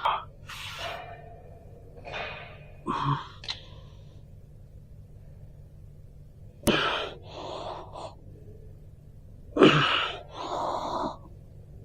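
A person's breathy gasps and exhalations in short bursts every second or few, a couple of them set off by a sharp click.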